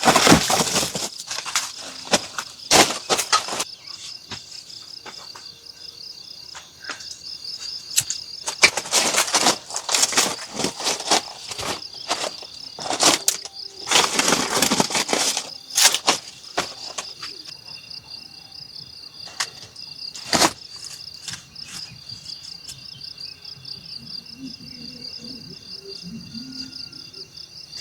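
Insects, likely crickets, trilling steadily in a fast pulsing high note throughout. Loud rustling noises and a few sharp knocks come and go over it, the loudest in the first few seconds, around the middle, and a single knock about two-thirds of the way through.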